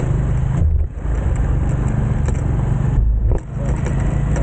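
Motorcycle running at road speed, with engine rumble and wind noise on the rider's camera microphone. The sound briefly drops twice, about a second in and again past three seconds.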